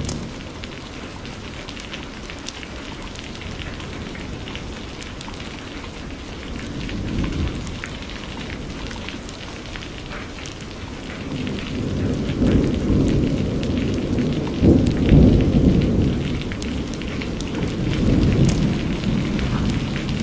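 Steady rain with scattered drop ticks, under rolling thunder: a low rumble swells briefly about a third of the way in, then a long roll builds from just past halfway, is loudest around three quarters through, and eases off near the end.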